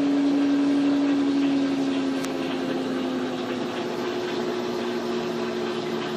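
Electrolux LTE12 washing machine running its spin cycle, with its tub seal and bearings replaced: a steady motor whine. About two seconds in, the hum eases and its pitch slides down while a second, higher tone climbs.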